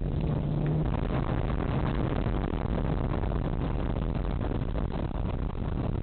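A vehicle on the move: a steady engine hum under dense road noise. A stronger engine tone fades about a second in.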